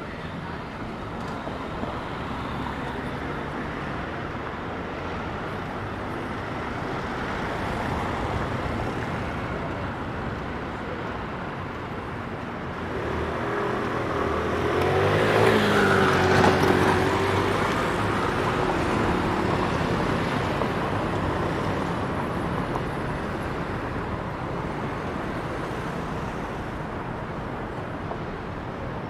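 City street traffic noise, with a motor vehicle passing close about halfway through: it grows louder, and its engine pitch drops as it goes by, then fades back into the traffic.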